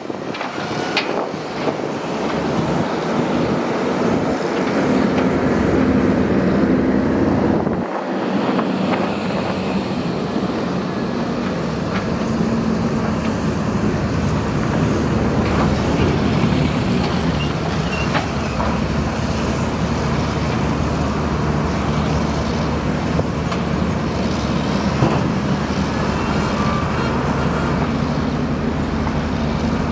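Diesel engine of a heavy excavator or bulldozer running steadily under work, a continuous low drone with a brief drop about eight seconds in.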